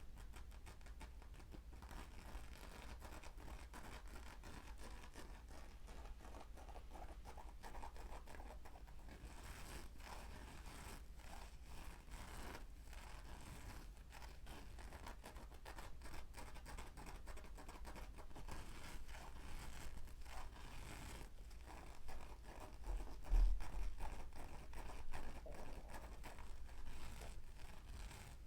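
ASMR trigger sounds close to the microphone: dense, fine scratching and scraping, with a few louder low thumps near the end.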